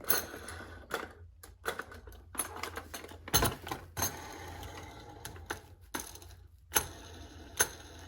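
Irregular clicks, taps and light knocks of a model-train boxcar and its packaging being handled, with a few sharper knocks about three and a half seconds in and near the end.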